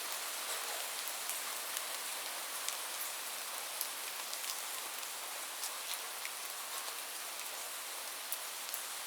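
Steady rain falling, a dense hiss strongest in the high range with scattered sharper drop ticks.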